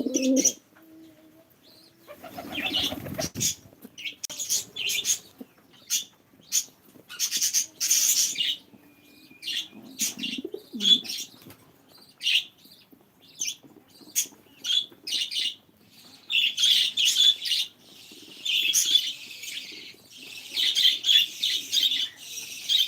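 Pet pigeons calling, with low coos and wing flaps among a steady run of short, high chirps and squeaks that grow denser towards the end.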